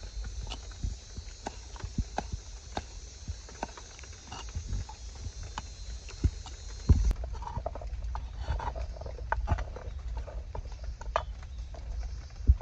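Irregular knocks and taps, a few to several a second, over a steady rain hiss. The hiss changes abruptly a little past halfway.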